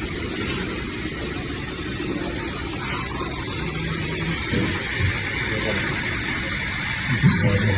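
Engine of a first-generation VW Caddy pickup running steadily at idle.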